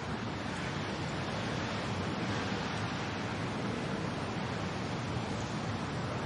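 Steady rain and wind: an even, unbroken wash of noise with no separate drops or gusts standing out.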